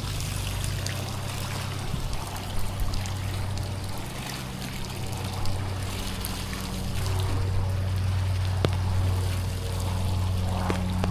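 Pressure-washing rig's engine running steadily while water sprays and runs off the surfaces being cleaned; the engine hum gets louder about seven seconds in.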